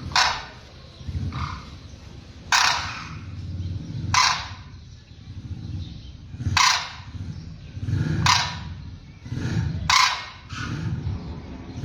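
Birds giving loud, harsh, crow-like calls, about six strong ones spaced a second and a half to two and a half seconds apart, with fainter calls between, over a low rumbling background.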